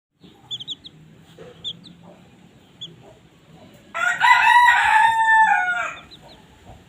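A few short, high chick peeps, then a rooster crowing loudly once for about two seconds from about four seconds in, its call falling off at the end.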